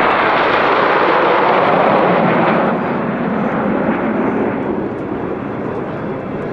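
Jet noise from a Kawasaki T-4 jet trainer flying past: a loud, even roar for the first two and a half seconds, then dropping lower in pitch and fading as it moves away.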